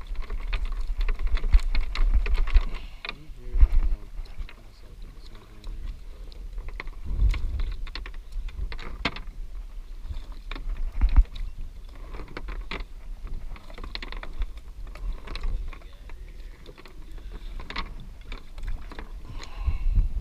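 Scattered clicks, knocks and rattles from bait and gear being handled on a small boat, over a gusty low wind rumble on the microphone.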